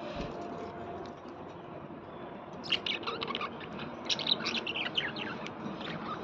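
Small birds chirping, a quick run of short, high calls starting a little under three seconds in and lasting about three seconds, over a steady low background noise.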